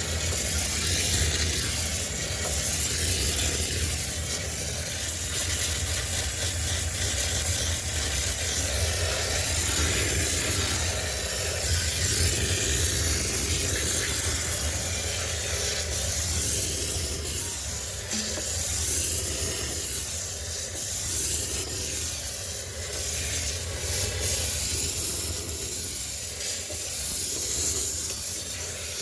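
High-pressure steam cleaner hissing steadily as its jet is played over a sneaker washing machine to sterilize it, with small swells in level and a steady low hum underneath.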